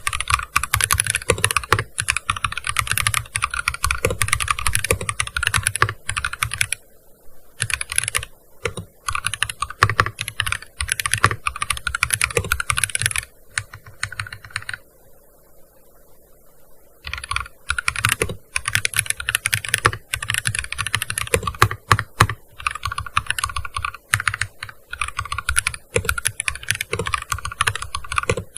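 Fast typing on a gaming keyboard: dense runs of keystrokes, with a brief pause about seven seconds in and a lull of about three seconds around the middle.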